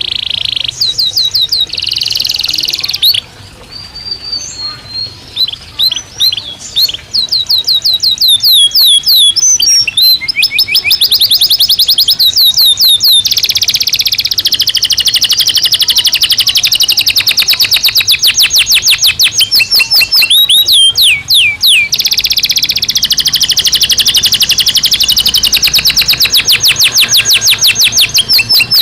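Domestic canary singing: a varied song of whistles and chirps that turns, about eight seconds in, into long, fast, loud trills of rapidly repeated high notes.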